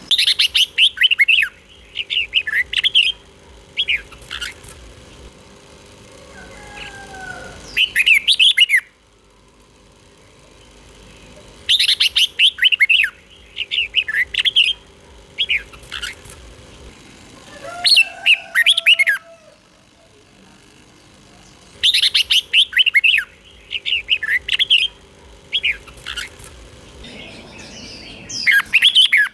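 Red-whiskered bulbul singing loud, quick warbled phrases of short bright notes. The same phrase pattern repeats about every ten seconds, three times.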